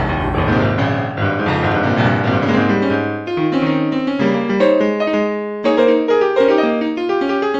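Piano music playing melodic runs of separate notes, with a brief pause about five and a half seconds in.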